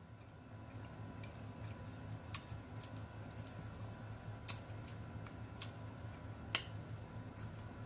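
Quiet chewing of a piece of chocolate: a scattered string of small, sharp mouth clicks over a low steady hum.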